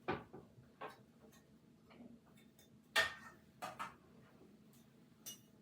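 Scattered sharp clicks and knocks of small objects being handled and set down, about six in all, the loudest about three seconds in.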